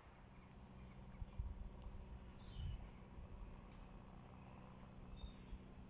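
Faint outdoor background: a few high, thin bird chirps that slide downward in pitch, over a low uneven rumble.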